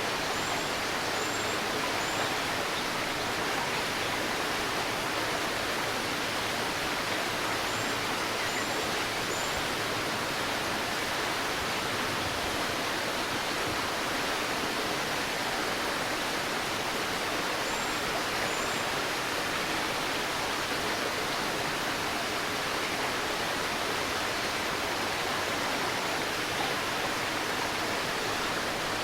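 Shallow stream babbling steadily. A small bird gives short, high chirps in three brief groups: three chirps near the start, three about eight seconds in, and two about eighteen seconds in.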